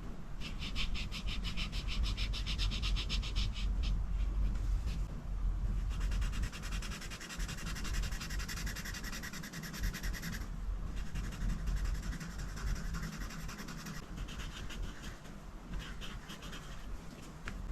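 A coloring tool rubbing on paper in quick back-and-forth strokes, in runs of a few seconds with short pauses between them, over a low steady hum.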